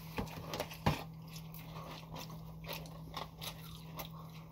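Close-miked biting and chewing of fast food, a string of small wet clicks and crunches, the loudest about a second in.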